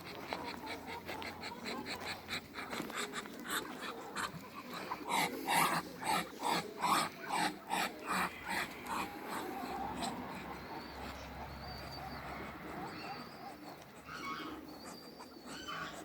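An animal's breathy, repeated huffs or calls, about two a second, loudest in the middle stretch.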